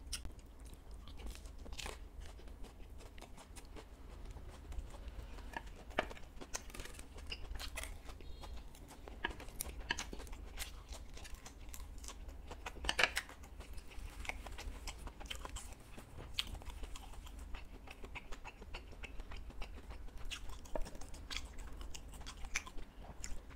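Close-miked chewing of fried food, with irregular crisp crunches and bites.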